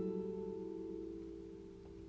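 Background music: a strummed acoustic guitar chord rings on and slowly fades away.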